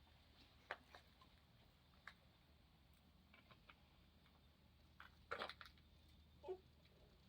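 Near silence with a low steady hum and a few faint scattered clicks, with a short cluster of louder clicks about five and a half seconds in.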